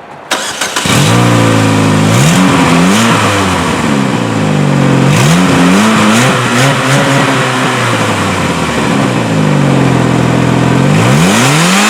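Car engine starting up with a brief sputter just after the start, then revved hard several times, its pitch climbing and falling back to idle between blips.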